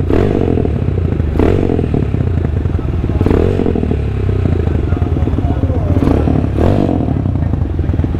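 Big-bore single-cylinder motorcycle engine running through a new custom Orion muffler without its silencer insert, with a steady deep exhaust note and a few short throttle blips.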